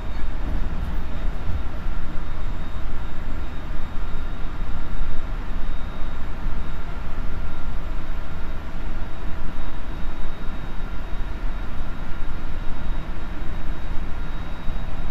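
On-board running noise of a JR Central 373 series electric train (motor car KuMoHa 373-8) travelling along the line: a steady low rumble with a faint, steady high whine above it.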